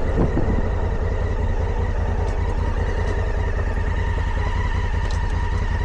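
Motorcycle engine running steadily while riding at an even speed, with the dense low pulsing of the exhaust and a faint steady whine above it.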